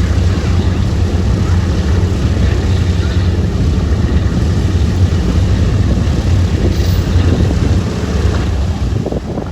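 The B-17 Flying Fortress's four Wright R-1820 Cyclone radial engines running with a steady, deep propeller drone. The level dips slightly near the end.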